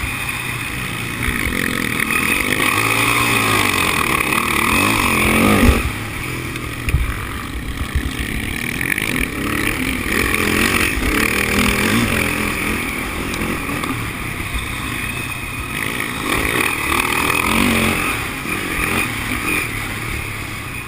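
Sidecar motocross outfits' engines revving and racing on the track, rising and falling as they go through the gears. The sound is loudest just before six seconds in, then drops off suddenly.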